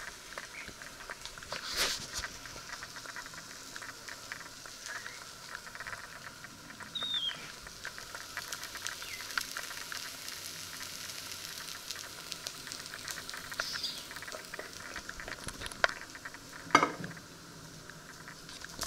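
Breaded patties frying in hot fat in a pan, a steady fine sizzle with scattered crackles. A knock sounds about two seconds in and a louder one near the end.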